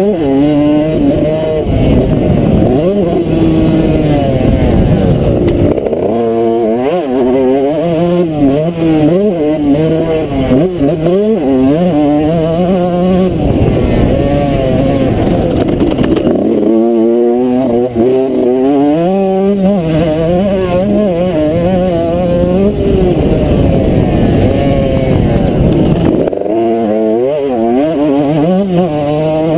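A 2003 Suzuki RM125's 125cc two-stroke engine, heard loud from onboard, repeatedly revving up hard and dropping off as the rider works the throttle and gears around the track.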